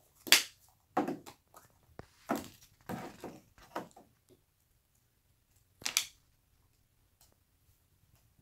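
Plastic blind-bag packet crinkling and tearing as it is opened by hand, in a few short bursts, with a sharp rip at the start and another about six seconds in.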